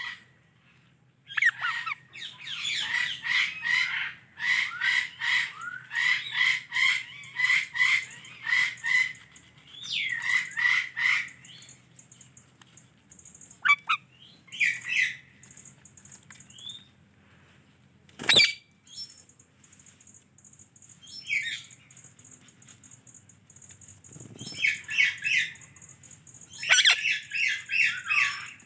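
Indian ringneck parrot squawking and chirping in runs of harsh, repeated calls, about two a second, with pauses and scattered single calls between the runs. There is one sharp click about two-thirds of the way through.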